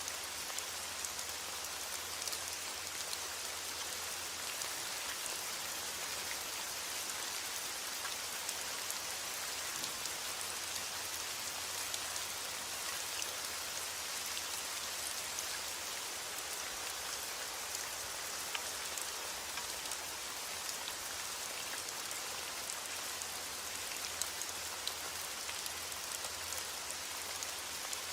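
Steady heavy rain falling, an even hiss with many distinct drop ticks scattered through it.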